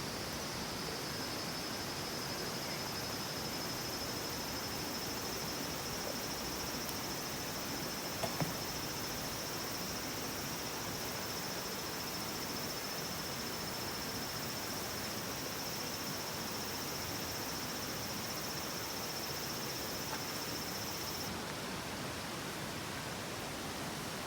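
Outdoor ambience of insects chirring in one steady high tone over a soft background hiss, with a couple of faint clicks about a third of the way through; the insect sound cuts off suddenly near the end.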